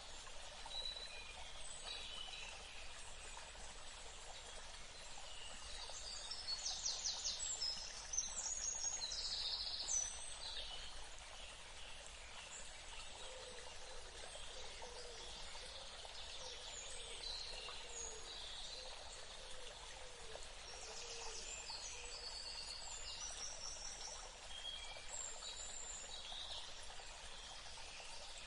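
Birds calling and chirping, with a rapid trill and sharp calls about a third of the way in, over a steady hiss of running water.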